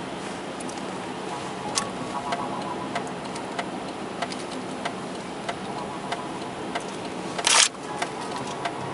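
Steady road and engine noise inside a car, with a regular light ticking about every 0.6 seconds. A short, loud rushing burst comes about seven and a half seconds in.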